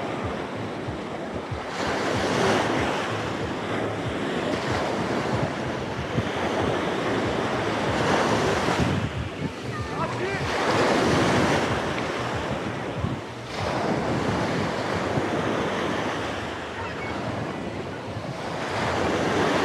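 Sea waves breaking and washing up the beach, swelling and falling back every few seconds, with wind buffeting the microphone.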